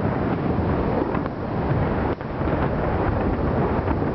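Aerial fireworks shells bursting in a dense barrage, their bangs blending into a continuous rumble with a few sharper reports standing out.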